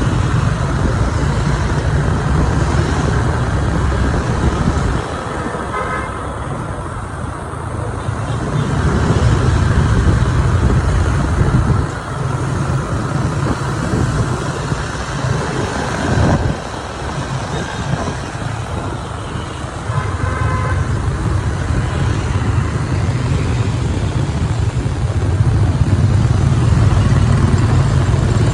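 Riding a motorbike through city traffic: a steady low engine and road rumble that rises and falls, with short vehicle horn beeps twice, about six seconds in and again about twenty seconds in.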